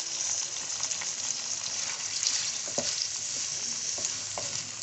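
Sliced onions and chopped garlic sizzling in hot oil in a metal kadhai, stirred with a spatula that taps and scrapes against the pan now and then.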